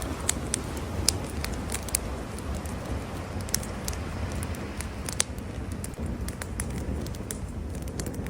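Campfire crackling, with sharp, irregular pops over a low, steady rumble.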